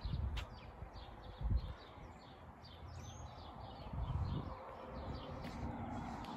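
Small birds chirping in quick, short falling notes, over low gusty rumbles of wind on the microphone, strongest about a second and a half in and again around four seconds.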